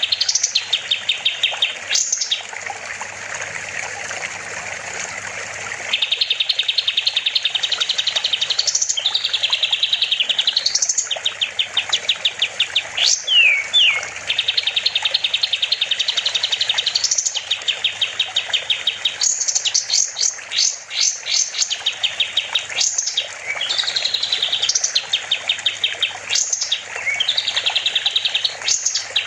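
Kapas tembak, a bulbul, singing vigorously in fast trills of rapidly repeated notes, broken by quick upward-sweeping whistles. The song pauses about two seconds in and resumes about six seconds in.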